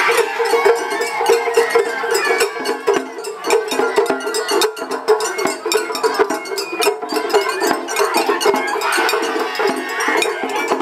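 Japanese festival hayashi music played on a dashi float: fast, dense taiko drumming under high held notes of a bamboo flute.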